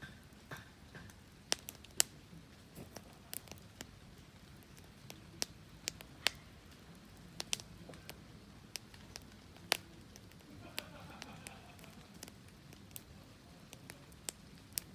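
Wood fire crackling: irregular sharp pops and snaps, a few of them loud, over a low steady hiss.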